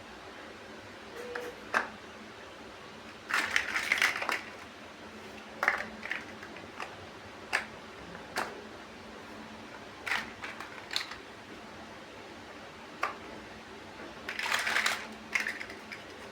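Plastic LEGO-style building bricks being handled and snapped together: scattered sharp clicks, with two short bursts of rattling, one about three seconds in and one near the end.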